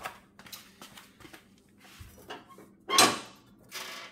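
Handling noise: light scattered knocks and clicks, then a louder scraping rustle about three seconds in.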